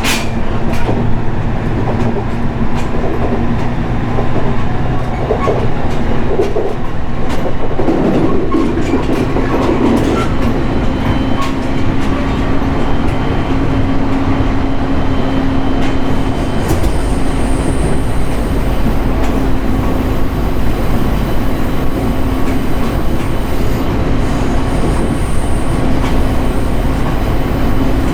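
Running noise of a JR East 701 series electric train at speed, heard on board: a steady rumble of wheels on rail with a low hum and a few clicks in the first seconds. The rumble grows heavier about halfway through.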